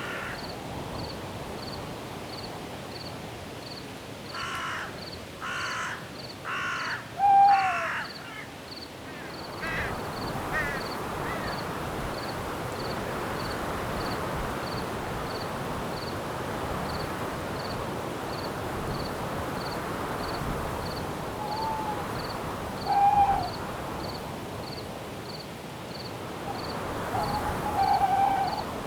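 Night forest ambience: crickets chirping in an even pulse, about two chirps a second. About four seconds in, a bird gives four harsh calls, followed by a short falling note. From about ten seconds in, a steady rush of wind through the trees swells, with a few more short falling calls later on.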